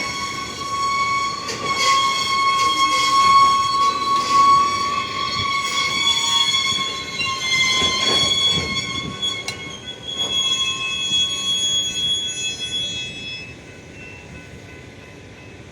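Freight train rolling slowly, its wheels squealing against the rails in several high, wavering tones, with occasional clanks and rumble. The squeal dies away near the end, leaving a quieter rumble.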